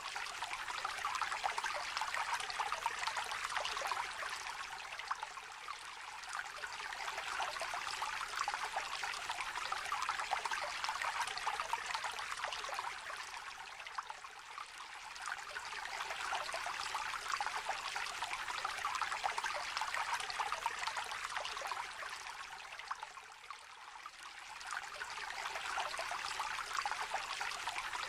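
A small stream trickling and babbling over stones, a steady splashing burble that swells and eases in slow waves every several seconds.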